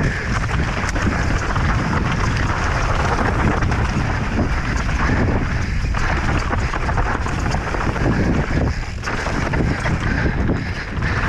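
Wind rushing over the microphone of a camera on a mountain bike riding downhill at speed, with constant rattling and knocks from the bike over rough ground.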